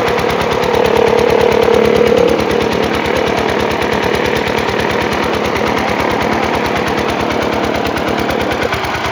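Kirloskar generator engine running loudly and steadily with rapid, even firing pulses during a load test; a hum swells briefly about a second in.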